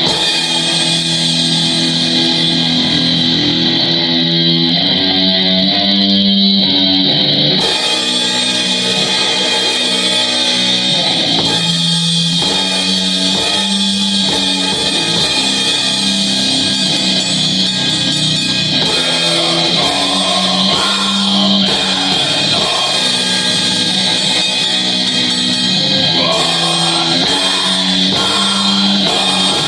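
Heavy metal band rehearsal: distorted electric guitars holding long sustained chords over a drum kit, with a steady bright hiss of cymbals and distortion above.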